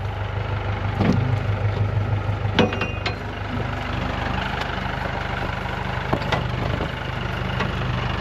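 Tractor engine idling steadily, with a few short knocks over the top.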